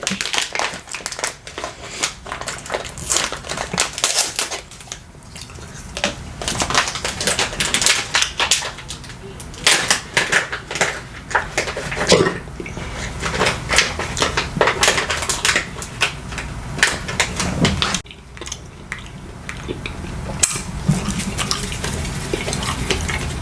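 Close-up eating sounds: cutlery clicking and scraping against dishes, with chewing, in many small irregular clicks. The sound drops off suddenly about eighteen seconds in, then picks up again.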